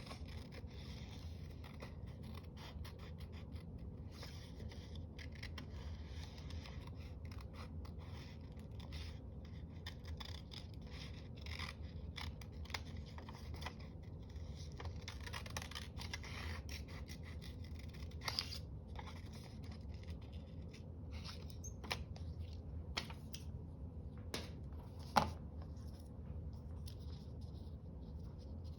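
Scissors cutting paper: a long run of small snips and paper rustles, with one sharper click near the end, over a low steady hum.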